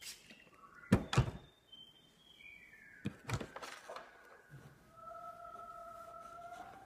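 A flat iron knocking and clacking as it is clamped and worked down a section of hair: five sharp knocks, two close pairs about a second in and about three seconds in. A faint tone steps down in pitch behind them and settles into a steady held note for the last two seconds.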